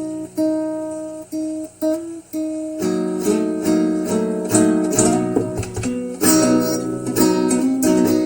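Acoustic guitar song intro: a few held plucked notes, then fuller strummed chords from about three seconds in.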